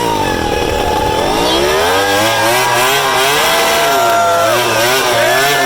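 Ducati Desmosedici GP19 MotoGP bike's V4 engine revved hard during a burnout, the revs climbing and dropping several times and then held high near the end.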